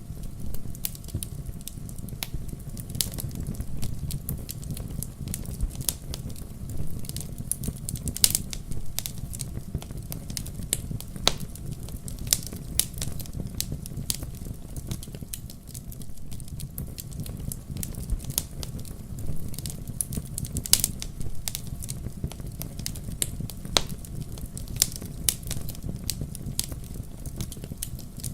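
Wood fire burning in a fireplace: dense sharp crackles and pops over a steady low rush, with a few louder pops standing out.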